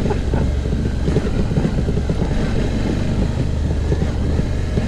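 Suzuki V-Strom motorcycle's V-twin engine running steadily while riding on a dirt trail, with wind and road noise.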